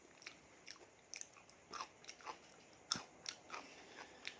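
Close-up mouth sounds of a person chewing and biting a spicy seafood salad: irregular wet clicks and crunches, the sharpest about three seconds in.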